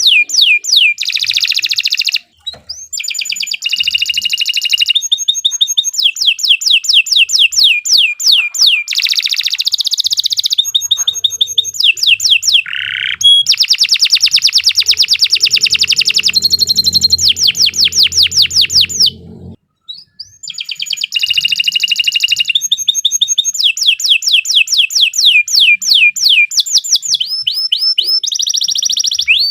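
Domestic canary singing a long, loud song of fast trills, each a rapid run of repeated high notes sweeping downward, with short breaks about 2 seconds in and about two-thirds of the way through.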